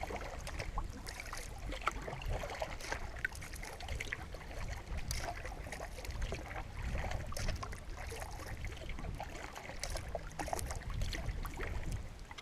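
Water splashing and dripping as a cedar strip solo canoe is paddled, with scattered small splashes and drips over a low steady rumble.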